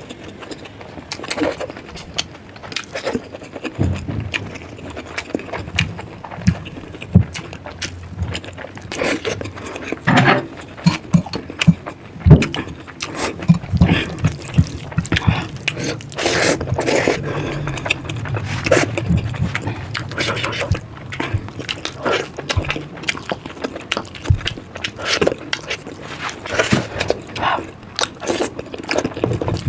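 Close-miked eating sounds: irregular wet chewing and smacking clicks, with occasional scraping.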